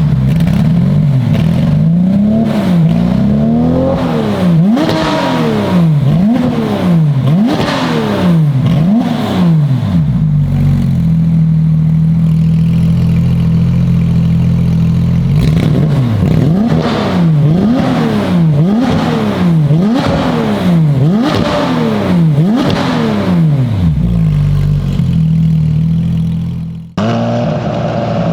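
Porsche 992 GT3 RS's naturally aspirated flat-six, breathing through an iPE Innotech titanium full exhaust, revved in two runs of quick sharp blips that rise and fall about once a second, with steady running between them. About a second before the end the sound cuts abruptly to a quieter, steady engine note.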